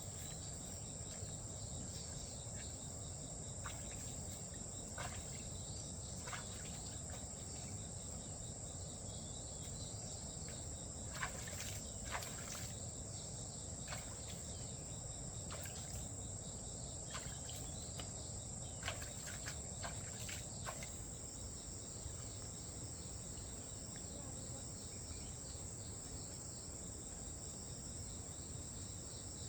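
Insects chirring steadily in one high, continuous band, over a low outdoor background. Light clicks and knocks come now and then until about two-thirds through.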